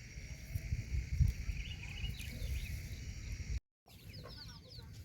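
Chickens calling. A low rumble runs under the first part. After a brief dropout about three and a half seconds in comes a rapid run of many short, high peeps.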